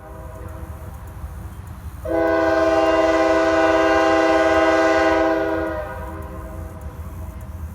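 Freight locomotive's air horn sounding one long chord of several notes, coming in suddenly about two seconds in and dying away near six seconds, over the steady low rumble of the passing train.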